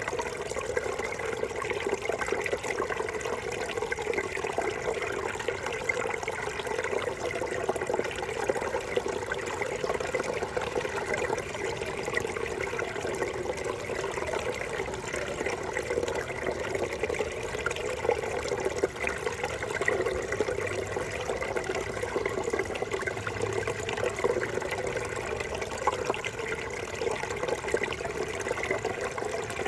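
Brook babbling and gurgling over stones, a steady run of water.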